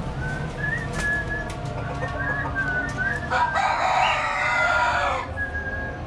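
Small caged birds, budgerigars, chirping in short calls. A louder, harsher call lasting about two seconds comes a little past halfway and stands out above the chirps.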